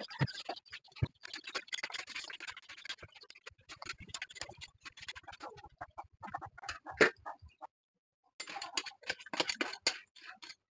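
Crackling and sputtering of crabs frying in butter and ketchup in a wok over a wood fire: irregular small pops and clicks over a faint hiss, with one sharper knock about seven seconds in and a short pause a little after eight seconds.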